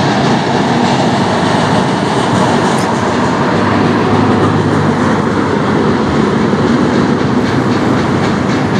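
Freight train cars (tank cars, then autoracks) rolling past at steady speed: a loud, continuous rumble of steel wheels on the rails, with faint repeated clicks of wheels over the rail joints.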